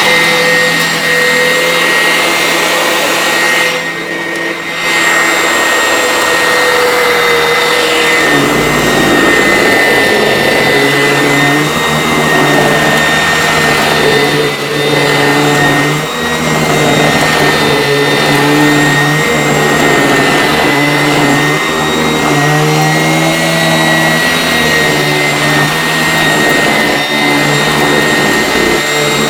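Vacuum cleaner running continuously with a high motor whine. About eight seconds in, its pitch dips and a low rumble joins, and from then on the motor's pitch wavers up and down.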